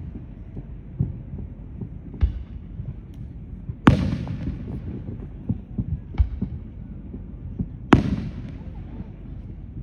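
Fireworks going off: two loud sharp bangs about four seconds apart, with lighter pops and a low, steady rumble between them.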